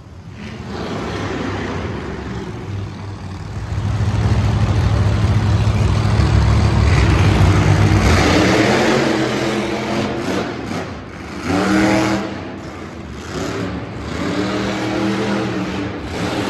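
Monster truck engine running hard with a deep rumble, then revving up twice more, the pitch climbing each time, in the last few seconds.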